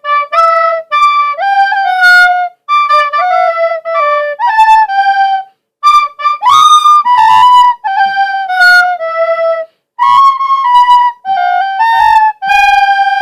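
A flute-like wind instrument playing a loud melody of short notes in phrases, with brief pauses between phrases and a breathy, overblown note about six and a half seconds in.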